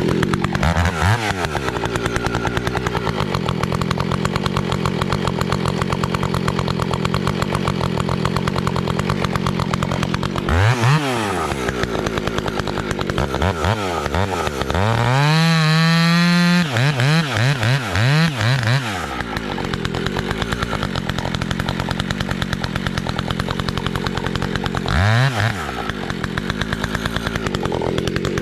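Large chainsaw with a modified exhaust running at high revs through firewood. The engine note dips and picks up again several times and climbs to a higher pitch for about a second halfway through.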